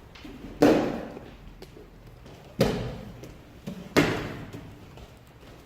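Three sharp kendo strikes, about a second and a half apart, each echoing briefly in the hall: bamboo shinai hitting armour together with a stamping step on the floor.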